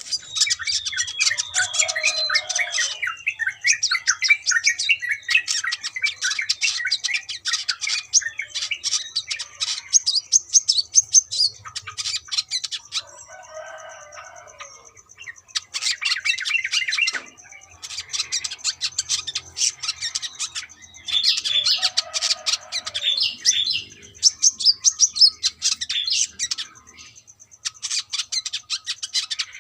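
Brown-throated sunbird (coconut sunbird) singing a fast, high, twittering chirp song in bursts of several seconds, broken by short pauses.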